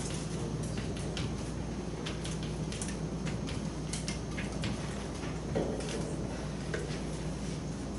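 Chalk tapping and scratching on a blackboard in many short, irregular strokes, over a steady low hum of room noise.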